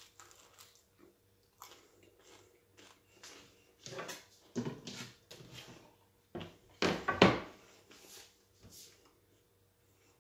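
Biting into and chewing a crusty slice of freshly baked bread: a run of short crunches, loudest around four and seven seconds in.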